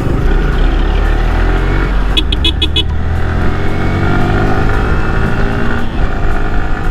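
Yamaha R15 V3's single-cylinder engine running at highway speed, its pitch rising steadily from about three seconds in as it accelerates. Midway, a quick run of high-pitched beeps sounds briefly.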